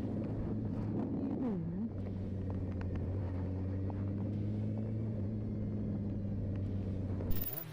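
A motor vehicle's engine running at a steady speed, a low even hum that cuts off near the end.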